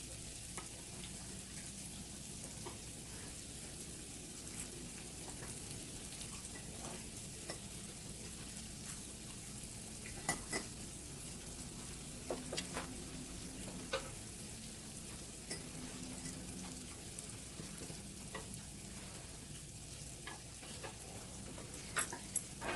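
Beef and prawns sizzling steadily on a grill, with a few light clicks of utensils against the pan here and there.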